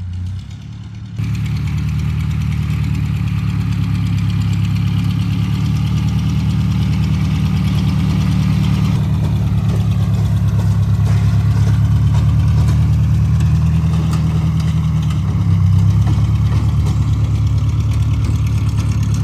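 Tractor engine running steadily under load while rototilling garden soil; the sound jumps louder about a second in.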